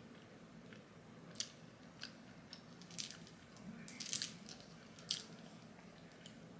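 Faint close-up chewing of food, with a handful of short, sharp wet mouth clicks scattered through it.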